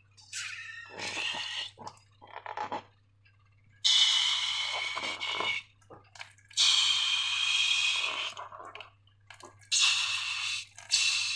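Slime being squeezed and squished, with short sticky squelches at first and then three longer wet, hissing bursts of one to two seconds each.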